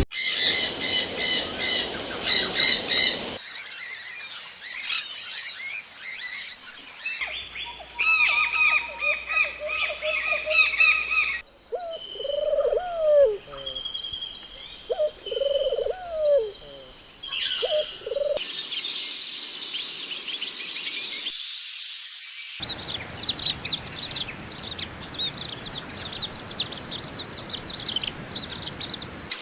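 A series of different birds calling and singing, cut together from several recordings that change abruptly every few seconds. High chirps, twitters and trills, with a stretch of low, arching calls repeated about five times in the middle.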